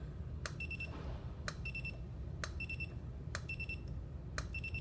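Einstein studio flash test-fired about once a second: five sharp clicks, each followed shortly by the unit's short high beep. This is a test run of a unit that keeps misfiring even with its ready light green.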